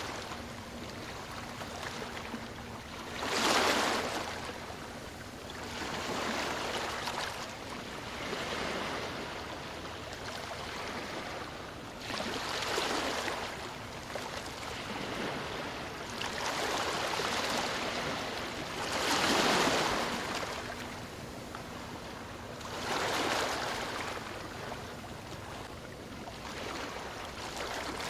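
Ocean waves breaking and washing onto the shore, each surge swelling and falling back every few seconds, with a steady wash between them.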